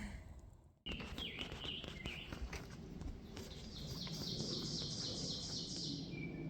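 Wild birds singing: a few chirps, then a fast, evenly repeated trill of about four notes a second lasting a few seconds, over a low steady outdoor background.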